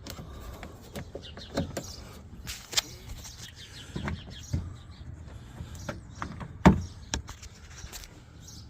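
Scattered clicks and knocks of plastic trim plugs and parts being snapped in and handled on a truck's door panel, with the loudest knock about three-quarters of the way through.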